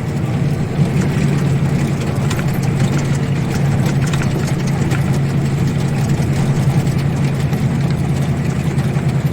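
ZIL-130 truck's V8 petrol engine running steadily with a constant low hum.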